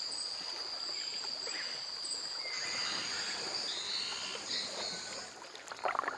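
Rainforest insects keeping up a steady high-pitched trill, with a second, higher trill growing stronger about two and a half seconds in. Near the end comes a short, louder burst of noise.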